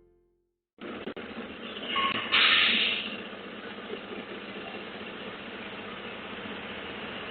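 Steady running of a cart delivery truck and surrounding street noise, cutting in about a second in, with a short, loud hiss about two and a half seconds in.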